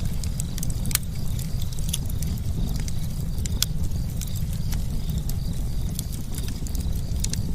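Campfire burning: a steady low sound of flames with frequent irregular sharp crackles and pops of burning wood.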